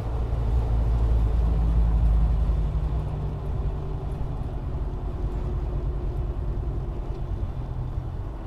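Car engine and road noise: a steady low rumble with a faint hum that slowly drops in pitch, and no crash in it.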